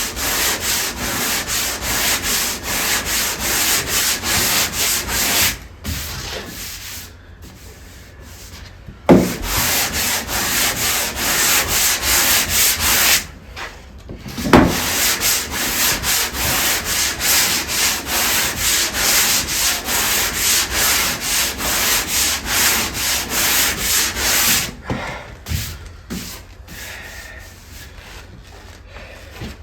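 Sandpaper rubbed back and forth by hand across wooden hull planks, about two strokes a second, fairing filled seams between the planks. The strokes stop twice briefly, with a sharp knock each time work resumes, and fade to a few light rubs near the end.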